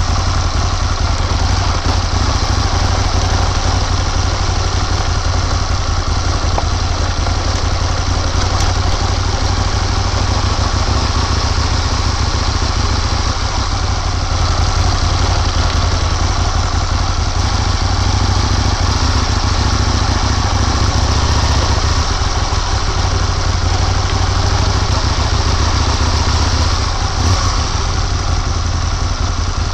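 Motorcycle engine running steadily under way, heard from on the bike, with a steady low rush of wind and road noise.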